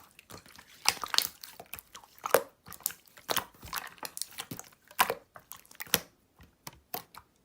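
Green clear slime being pressed and stretched by hand, giving irregular wet clicks and pops.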